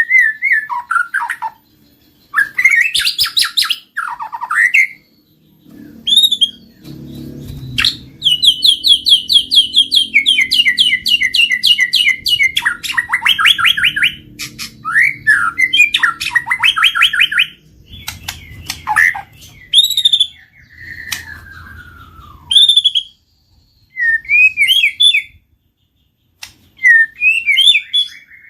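White-rumped shama (murai batu) singing a varied song: loud gliding whistles and fast trills of rapidly repeated notes, in phrases broken by short pauses. It is a provocation song used to stir caged shamas into singing.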